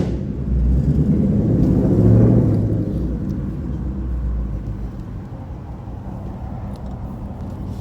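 Ford Mustang 5.0 V8 with a loud exhaust: it picks up revs for the first two seconds, then eases off and settles into low, steady running.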